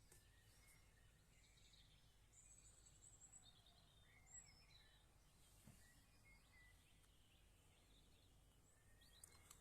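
Near silence: faint, scattered bird chirps over a low, steady background rumble.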